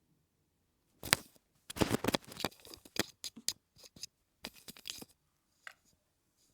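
A cat's bed creaking and crackling as the cat presses on it with its paws: a run of irregular sharp crackles for about four seconds, then one more near the end.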